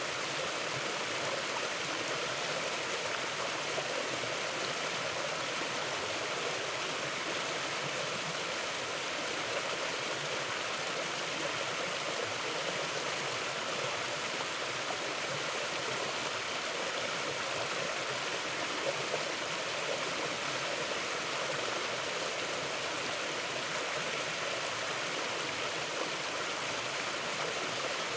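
A mountain stream flowing: a steady, unbroken rush of water.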